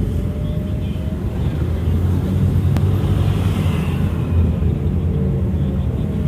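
Steady low rumble of a vehicle travelling along a road, with engine and road noise.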